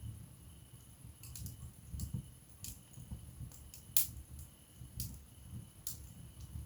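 Wood fire in a fireplace crackling, with sharp pops scattered over a low flutter of flame, the loudest pop about four seconds in.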